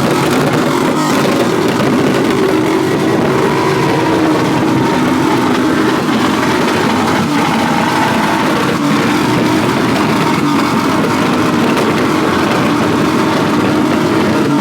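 Car engine running loudly and steadily, its pitch holding nearly level.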